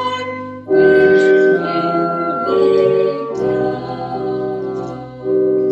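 Organ playing slow, held chords that change every second or two, as communion music.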